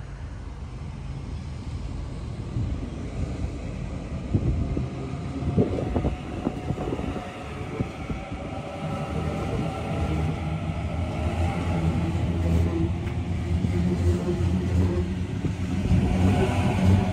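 A train approaching, with a low rumble and steady humming tones growing louder, and a few knocks about five seconds in.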